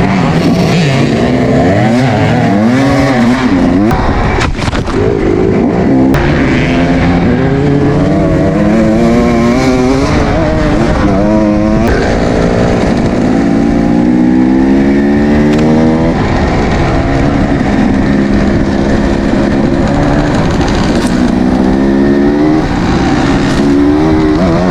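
Kawasaki KX250 dirt bike engine revving hard while ridden, the pitch climbing and dropping again and again as the throttle is worked and gears change, with a few long climbs under full throttle.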